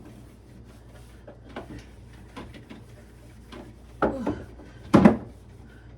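Plastic refrigerator drawers and shelves being handled, with faint rubbing and small ticks, then two louder knocks about four and five seconds in.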